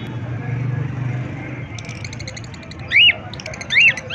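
Parrots calling: two short, loud, sharp calls that rise and fall in pitch, near the end, with quick runs of high chirping around them. A steady low hum runs underneath.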